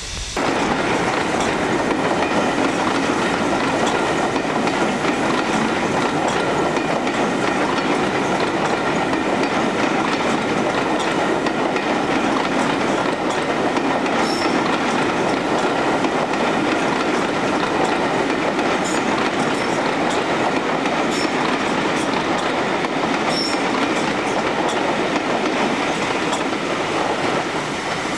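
A train of passenger coaches running past close by: a loud, steady rumble of wheels on rail that starts suddenly, with a few short high wheel squeaks partway through, easing slightly as the last coach goes by.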